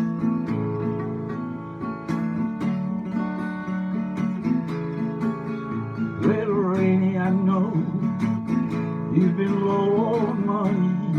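Instrumental intro of a country song: acoustic guitar strumming steady chords. A wavering lead melody line comes in about six seconds in and again near the end.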